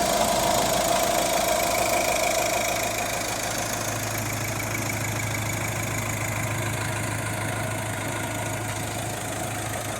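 Iveco Daily 2.3 HPi four-cylinder turbodiesel idling steadily with the bonnet open, a practically new engine running evenly.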